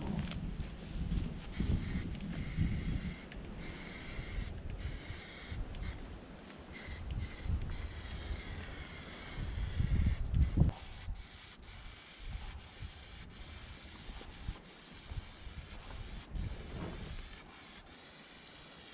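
Hand sanding of the metal wheel-pan hinges, an irregular rasping rub broken by many short pauses, as the hinges are prepared for zinc coating.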